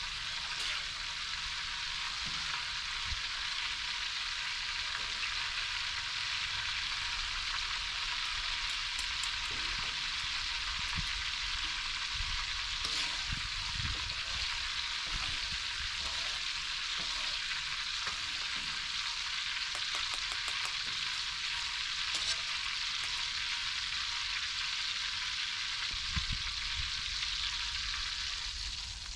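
Food frying in hot oil in a pan, sizzling steadily throughout, with a few soft low knocks from stirring.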